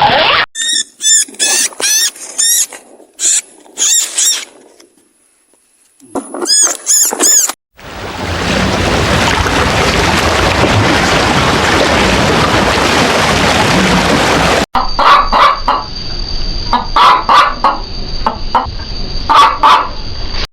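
Chickens clucking and calling in short repeated bursts, broken by about seven seconds of loud steady noise in the middle, then more short calls and clicks over a steady high tone near the end.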